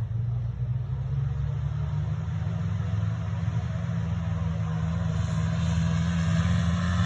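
Small motorcycle engine running steadily, growing gradually louder, with higher engine tones rising toward the end.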